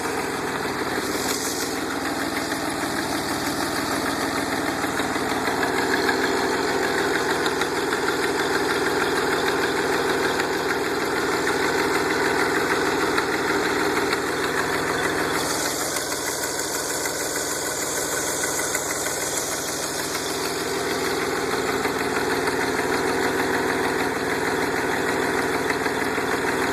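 DeLorean DMC-12's PRV V6 engine running steadily through a leaking exhaust, its tone shifting slightly about six seconds and again about fifteen seconds in.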